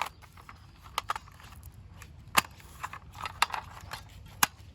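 Light clicks and taps of toy vehicles being handled, coming irregularly about once a second.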